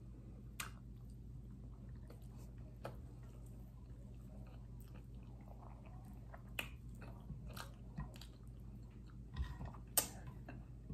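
Faint chewing and mouth sounds of someone eating rice and shrimp paste by hand, with scattered small clicks and smacks. The sharpest click comes near the end. A steady low hum runs underneath.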